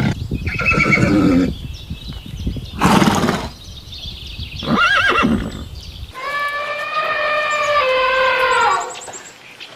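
Horse whinnying, in several short, abruptly cut clips, one with a shaking, wavering pitch about five seconds in. In the last few seconds a long, steady, high call sounds, falling a little in pitch before it stops.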